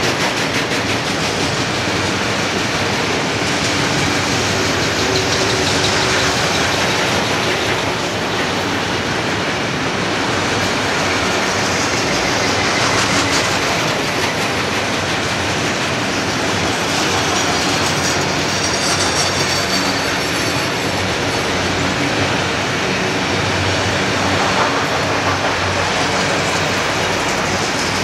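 Freight train of enclosed autorack cars rolling past: a steady, continuous noise of steel wheels running on the rails.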